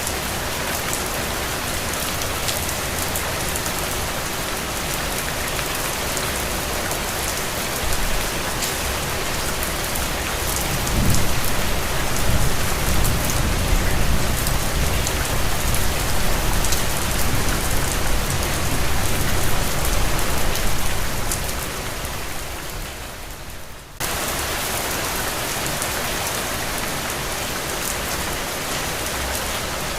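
Steady rain falling, a dense hiss with fine patter of drops. About a third of the way in, a low rumble swells up under the rain and then fades. Near the end the sound thins out briefly and snaps back abruptly.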